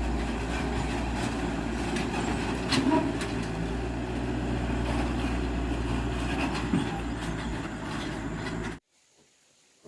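A vehicle on the move, with a steady low rumble of engine and road noise and scattered rattles and clicks over it. It cuts off abruptly near the end.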